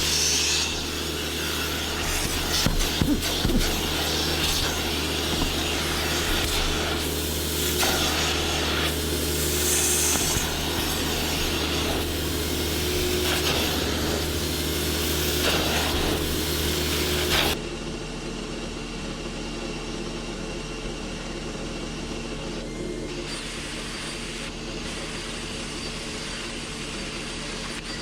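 Brush scrubbing against car upholstery or carpet in irregular strokes over a steady motor hum. About two-thirds of the way through, the scrubbing and hum stop abruptly and a quieter, even drone carries on.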